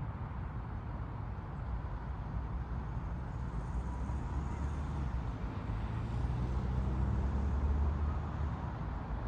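A car passing by: a low rumble that swells slowly, is loudest about eight seconds in, then fades.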